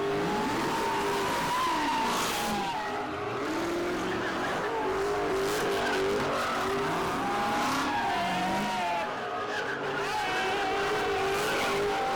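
A car engine held at high revs, the revs dipping and climbing again several times, with the tyres spinning and squealing in a burnout.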